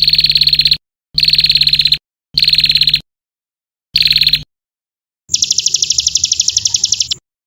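Recorded songbird trills of the kind played as masteran to teach caged songbirds: four short, rapid rattling trills with dead silence between them, then a longer, higher-pitched trill about five seconds in. A low hum from the recording sits under each trill.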